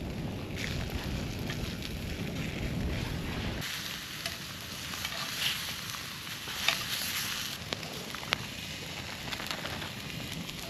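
A low rumble for the first few seconds, then sausages and onions sizzling over a campfire, with scattered pops and crackles.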